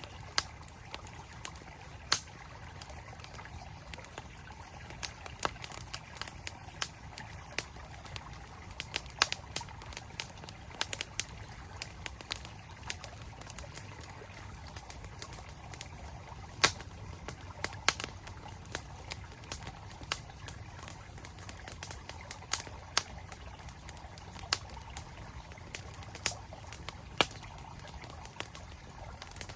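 Campfire crackling, with frequent irregular sharp pops, over the steady rush of a flowing mountain stream.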